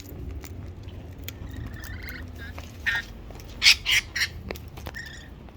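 Parrots squawking in a scuffle, with short harsh screeches about three seconds in and a louder cluster of them shortly after, as a lorikeet is chased off.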